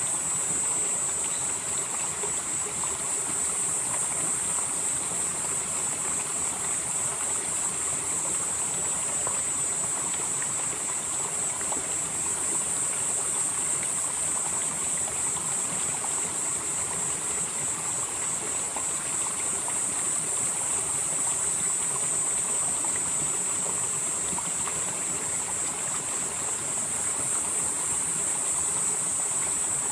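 Mountain valley stream flowing steadily over rocks, an even rushing of water. Over it runs a steady high-pitched whine, with a still higher layer that swells and fades every several seconds.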